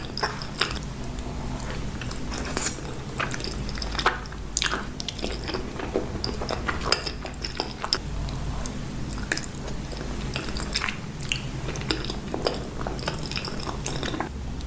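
Close-miked chewing of creamy pasta: irregular wet mouth clicks and smacks, over a steady low hum.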